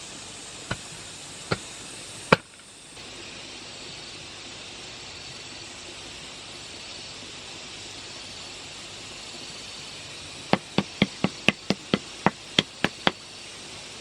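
Sharp knocks, like hammering or chopping: three spaced strikes in the first couple of seconds, then a quick run of about a dozen strikes, some four to five a second, near the end. Under them, a steady hiss with a faint high insect buzz.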